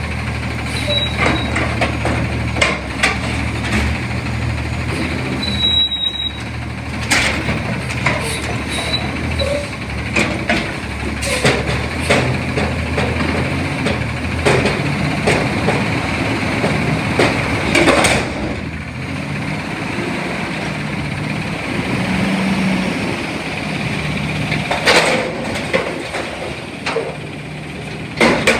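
CNG front-loader garbage truck's engine idling, with repeated sharp knocks and clanks throughout.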